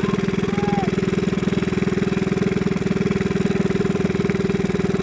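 Small fishing boat's engine running steadily at an even speed, with a fast, regular pulsing drone.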